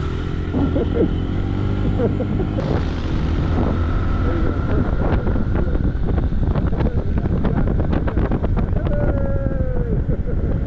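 Small single-cylinder dual-sport motorcycle engine running steadily, with wind on the microphone.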